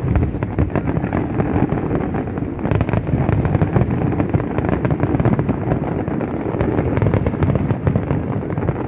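Aerial firework shells bursting in a dense barrage: a rapid, unbroken run of bangs and crackles, many overlapping each second.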